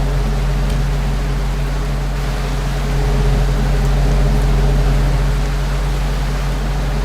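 Ceiling fan running: a steady low hum under an even whoosh of moving air.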